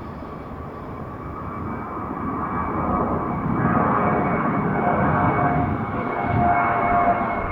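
Jet airliner's engines at takeoff power: a steady rushing noise with a high whine, growing louder as the plane comes closer.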